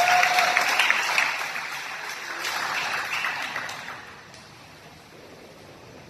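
Crowd applauding and cheering, with a short whoop right at the start; the clapping fades out about four seconds in.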